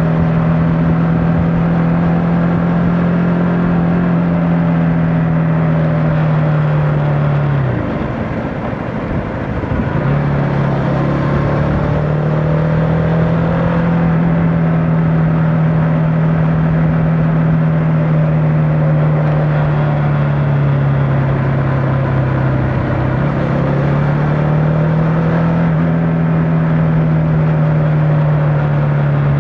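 Motorcycle engine heard while riding at a steady pace. About eight seconds in, the engine note falls away and quietens, then picks back up about two seconds later. There is a shorter dip in pitch about halfway through the rest.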